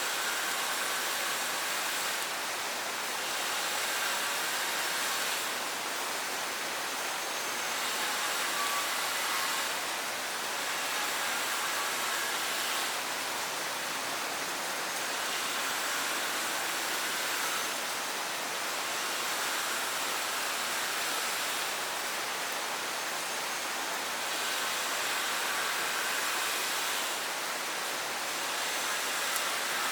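Steady rain falling, a dense even hiss that swells and eases slightly every few seconds.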